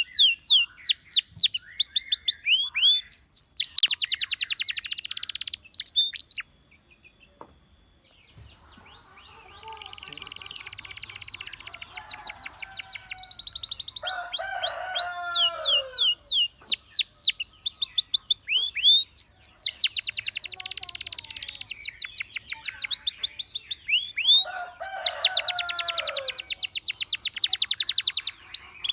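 Domestic canary singing: phrases of rapidly repeated, high, downward-sweeping notes alternating with dense buzzy trills, broken by a pause of about two seconds near the start.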